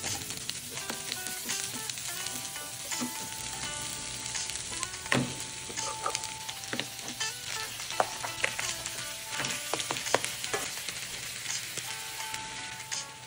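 Garlic and onion sizzling as they sauté in oil in a nonstick pan, with a spatula knocking and scraping against the pan now and then.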